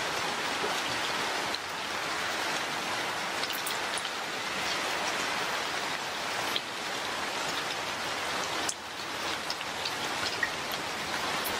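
Steady rain: an even hiss of falling water with scattered drop ticks.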